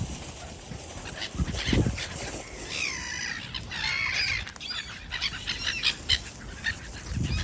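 Sparrows chirping, many short calls and rising-and-falling chirps overlapping, busiest a little past the middle.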